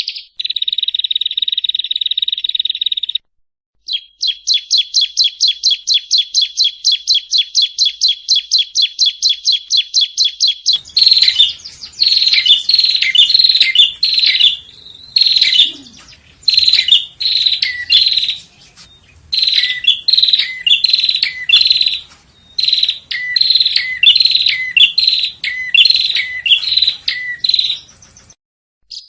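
Yellow-bellied prinia song: first a fast steady trill, then after a short break a rapid run of even, repeated notes. From about eleven seconds in come loud short chirping phrases with brief gaps between them, over a faint hum.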